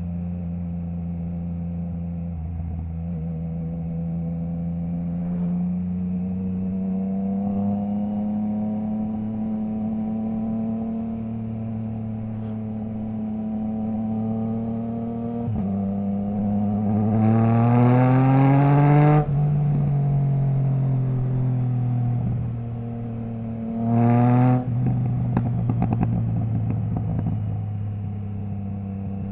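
Triumph Trident 660's inline three-cylinder engine running through a Zard stainless full exhaust system with the baffle removed, on the move. The note cruises and rises slowly, then climbs steeply under hard acceleration and is cut off sharply about two-thirds of the way in; a short sharp rev follows a few seconds later, then a string of exhaust crackles and pops on the overrun before it settles back to steady running.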